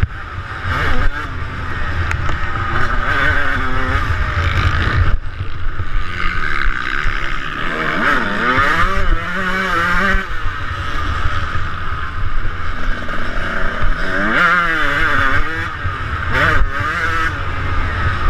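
Two-stroke motocross bike engine revving up and down as the bike is ridden around the track, its pitch rising and falling repeatedly, most clearly about halfway through and again near the end, over a heavy low rumble.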